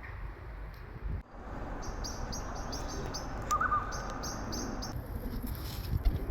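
Small wild birds chirping: two quick runs of short, high chirps, with one brief lower warbling note between them, over a steady background hiss.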